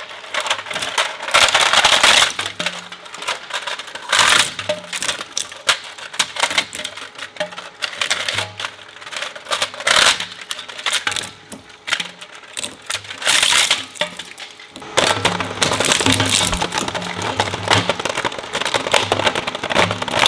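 Industrial shredder crunching and cracking material between its blades, a dense stream of sharp cracks and rattles with several louder crunching bursts. Background music plays underneath and grows fuller about three-quarters of the way in.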